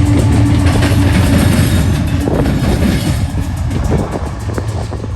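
Double-stack intermodal freight train rolling past close by: a heavy low rumble with a rapid, regular clatter of wheels over rail joints, easing off slightly near the end.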